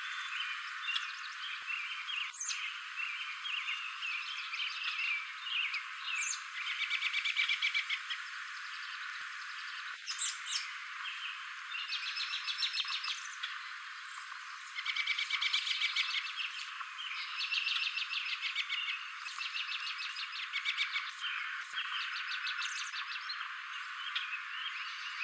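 Common grackle calling: several bursts of harsh, rapid rattling chatter, each a second or two long, with squeaky high notes in between, over constant background chatter.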